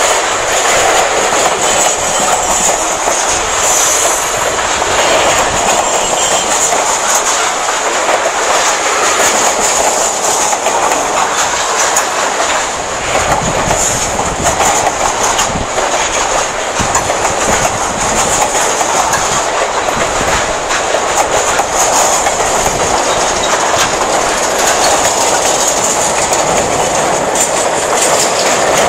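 Freight cars of covered hoppers and boxcars rolling past close by: a loud, steady rumble of steel wheels on the rails, with irregular clicks and clacks as the wheels pass over the rail joints.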